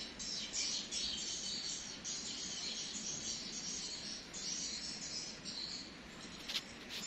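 Small birds chirping and twittering in dense, broken bursts, with a couple of sharp clicks near the end.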